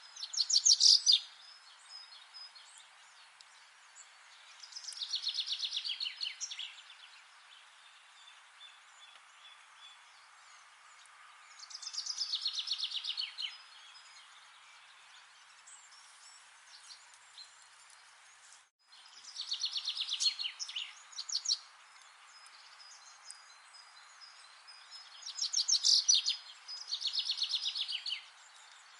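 A songbird singing short, fast trilled phrases of rapidly repeated notes, each about a second long, six times, with the last two close together. A steady hiss of background noise lies under the song.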